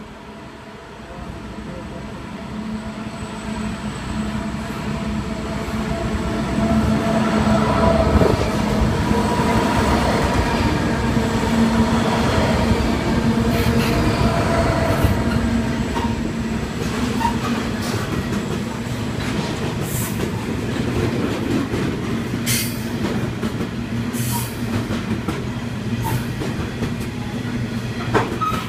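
Coal train led by diesel-electric locomotive 8202 coming through the station. The engine's hum and the rumble build over the first eight seconds or so, then the wagons roll past steadily with clickety-clack and a few brief high squeals from the wheels in the later part.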